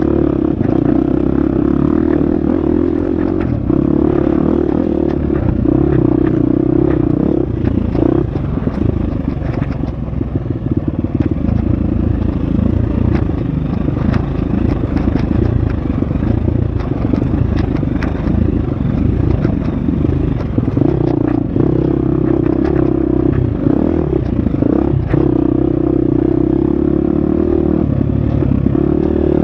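Husqvarna FX 350 dirt bike's single-cylinder four-stroke engine running hard on a trail, holding steady revs for long stretches at the start and near the end, with the revs broken up in the middle. Many sharp knocks and clatters of the bike over rough ground sound through it.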